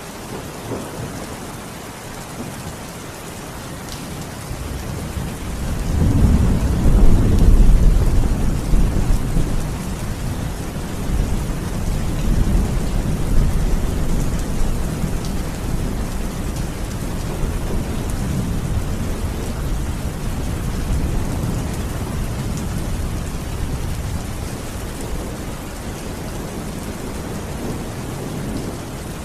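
Steady rain falling, with a long low roll of thunder that builds about five seconds in, is loudest a few seconds later, then keeps rumbling more softly under the rain.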